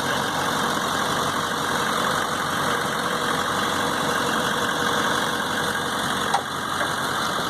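Motor vehicle engine idling steadily, with a single sharp click about six seconds in.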